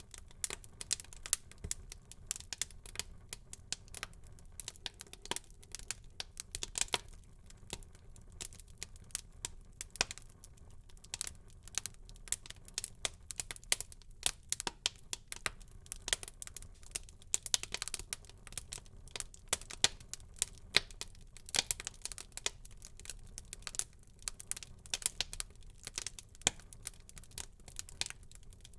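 Wood fire burning in a fireplace, crackling with many small irregular pops and snaps over a faint low rumble of the flames.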